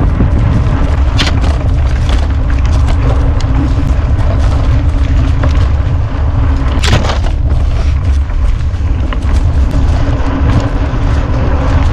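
Wind buffeting the microphone of a camera riding on a mountain bike over rough ground, with sharp rattles and knocks from the bike, the loudest about seven seconds in, over a faint steady hum.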